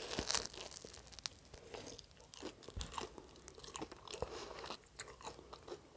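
A bite into a crusty toasted French hot-dog bun, with a crunch right at the start, then chewing with small, irregular crunches and mouth clicks.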